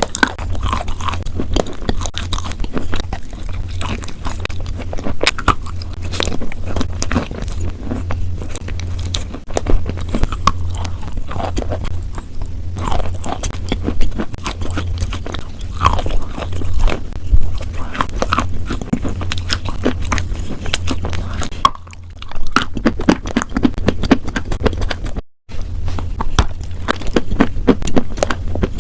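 Close-up biting and chewing of crunchy food: dense, irregular crunches and crackles, over a low steady hum. The sound cuts out for a moment about 25 seconds in.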